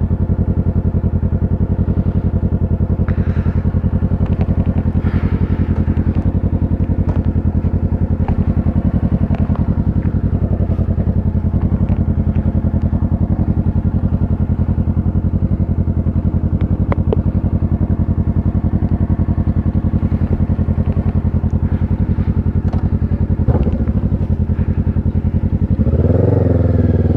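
Kawasaki Ninja 650's parallel-twin engine running steadily at an even speed, with a few light clicks. Near the end it gets louder and its pitch shifts.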